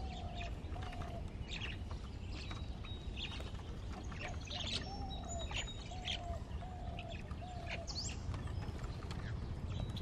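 Birds chirping and calling: scattered sharp chirps and chatter, with a short, arched low note repeated about once a second that stops for a few seconds midway, over a steady low background rumble.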